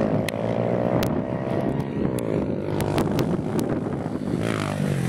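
Kawasaki KX65 two-stroke single-cylinder dirt bike engine running and being revved, its pitch rising and falling, with a few sharp ticks.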